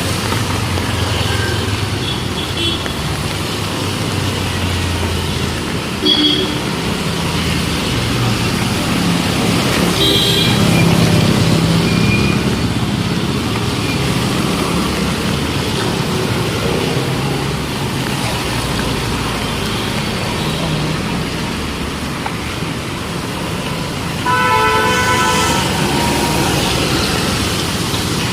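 Street traffic passing steadily, with several short horn toots and one longer vehicle horn blast of about two seconds near the end.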